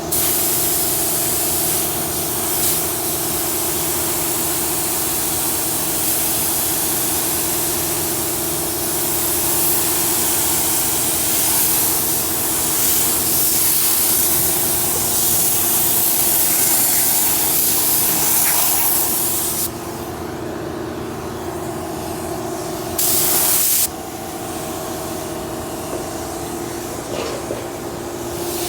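Compressed-air spray gun hissing steadily as paint is sprayed. It cuts off about two-thirds of the way through, gives one short burst about a second long, then starts again near the end. A steady machine hum runs underneath.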